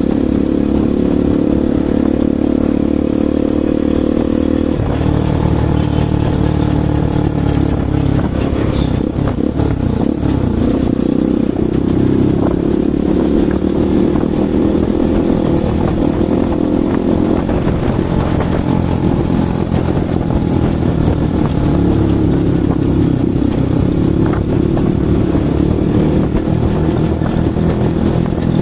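Bajaj Pulsar NS200 single-cylinder engine running through an aftermarket Akrapovic exhaust, a steady loud exhaust note whose pitch shifts about five seconds in.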